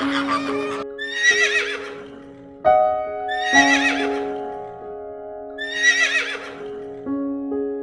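A horse whinnying three times, each a high, wavering call about a second long, over background music with held notes.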